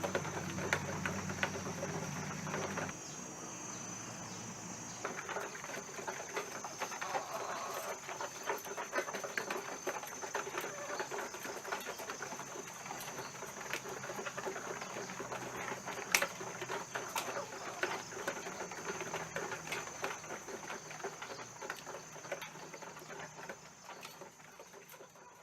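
Laying hens pecking and scratching, a dense patter of small taps, over a steady high thin whine. A low hum stops about three seconds in.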